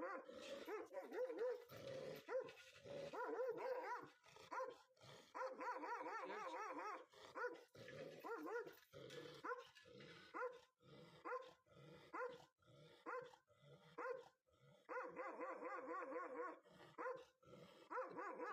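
Guard dog barking repeatedly and aggressively in quick runs of short barks, with brief pauses between runs.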